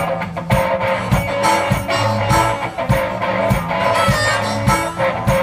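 A one-man band playing a blues song without vocals. Strummed electric guitar and a bass line run over a steady drum beat of roughly one stroke every 0.6 seconds.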